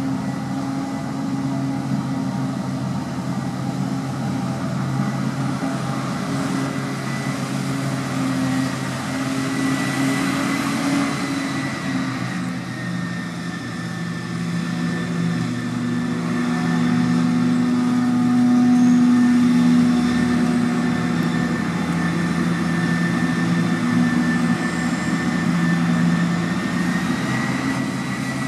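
Large diesel farm machinery running steadily under load, with a thin, steady high whine above the engine note. The engine note grows louder for a few seconds past the middle.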